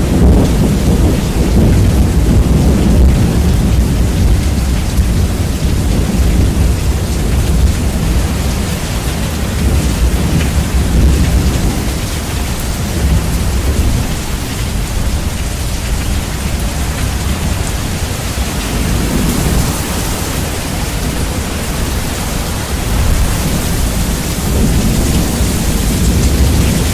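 Rain with thunder, bass-boosted so a deep, loud rumble dominates over the hiss of the rain. The rumble eases somewhat in the middle and swells again near the end.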